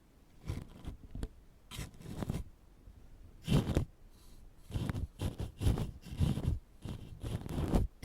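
Ear pick scratching and scraping close on the microphone in short, irregular strokes, as in ASMR ear cleaning. The strokes are sparse at first and come quicker from about halfway through.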